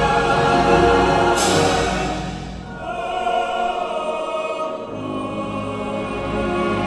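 A choral ensemble singing held chords. The sound thins out about two and a half seconds in, then the voices build again. There is a brief hiss about a second and a half in.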